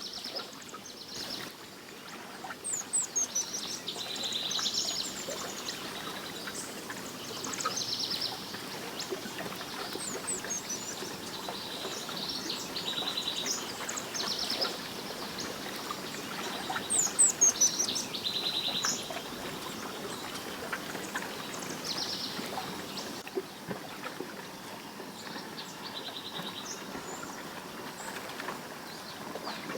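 Several birds singing and calling: repeated rapid trills and quick high chirps, over steady background noise.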